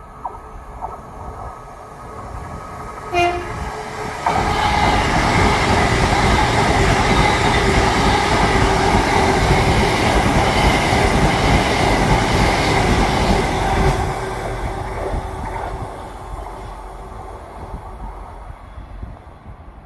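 GWR Hitachi Intercity Express Train (Class 800-series) sounds a short horn toot about three seconds in. Around a second later it passes close by through the station, loud for about ten seconds, then fades as it moves away.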